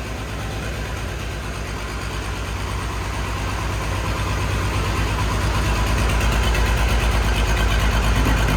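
Old diesel tractor engine running after a freezing cold start, a steady low pulsing beat that grows gradually louder as the tractor is moved out.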